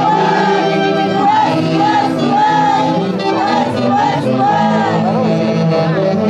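Andean festival orchestra music with saxophones playing a melody with strong vibrato over a steady accompaniment, and voices singing along.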